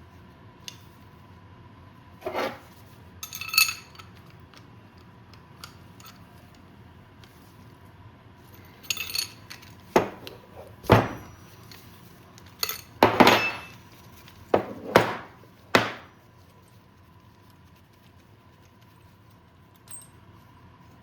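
Metal tools and small metal parts clinking and knocking, a dozen or so irregular sharp hits, some ringing briefly, during work on a dirt bike's shock linkage.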